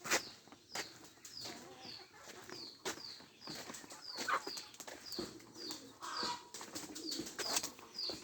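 A small bird repeating a short, high, falling chirp about two to three times a second, with a few sharp clicks or knocks scattered through, the loudest right at the start.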